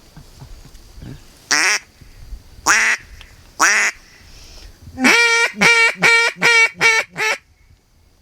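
Canada goose calling, most likely a hunter's goose call blown close by: three drawn-out honks that rise in pitch, then a quick run of six short, clipped honks.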